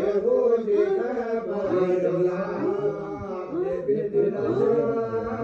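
Voices chanting a Hindu devotional hymn in a continuous sung line that rises and falls in pitch.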